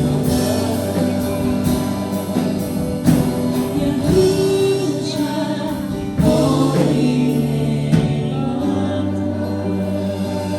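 Gospel worship song sung by a group of voices, choir-like, with band accompaniment.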